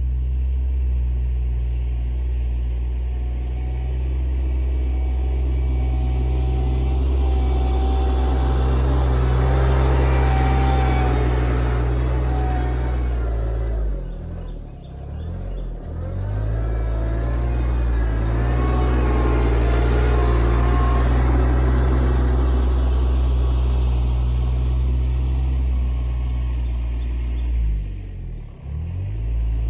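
Kioti RK24 compact tractor's diesel engine running steadily while working, with a higher whine shifting over it; the engine note and level dip briefly twice, in the middle and near the end.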